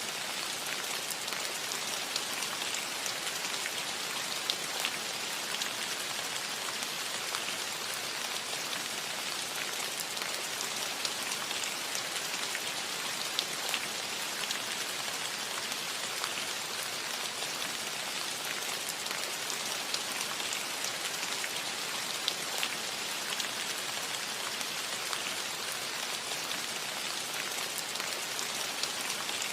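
Steady rain falling on a roof, an even hiss with many small drop ticks scattered through it.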